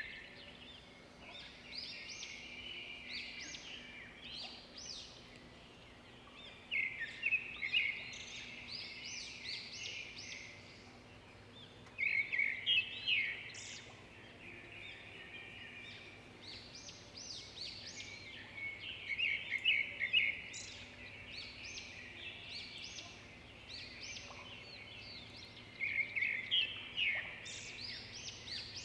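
A songbird singing in repeated bursts of rapid high chirps and quick rising notes, a burst about every six or seven seconds, over a faint steady low hum.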